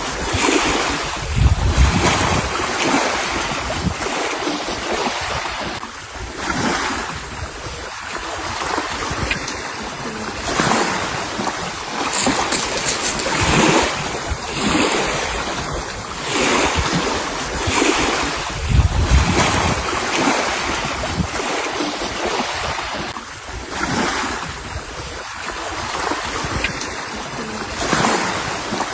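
Sea water washing in repeated surges every couple of seconds, with wind buffeting the microphone in low rumbling gusts.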